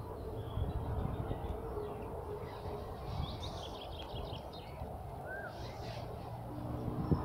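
Small songbirds chirping: a quick run of high chirps about three seconds in and a short call a couple of seconds later, over a steady low outdoor rumble.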